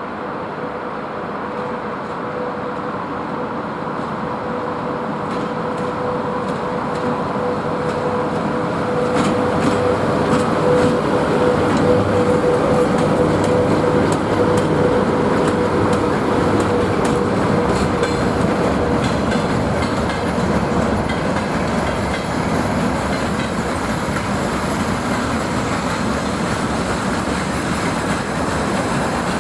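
VL80T electric locomotive and its freight train rolling past. The rumble grows louder over the first ten seconds or so, and a steady hum fades out about two-thirds of the way through. From about nine seconds in, the wagon wheels click over the rail joints.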